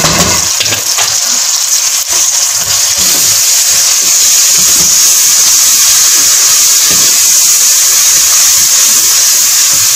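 Tomato paste and fried onions sizzling loudly in hot oil in a metal pot, stirred with a wooden spoon. A few knocks of the spoon come in the first few seconds; after that the sizzle runs steady.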